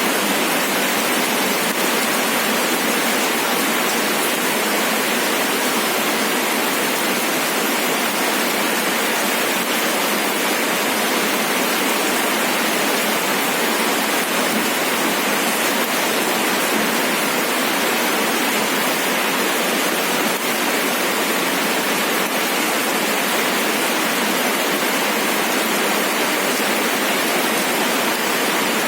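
Steady rain falling as a dense, even hiss with no separate drops or breaks standing out.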